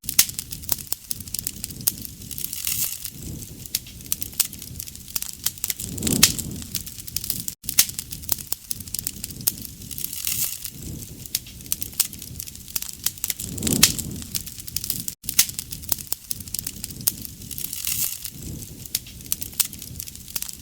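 Wood fire crackling and popping steadily, with a soft low swell of flame noise every few seconds.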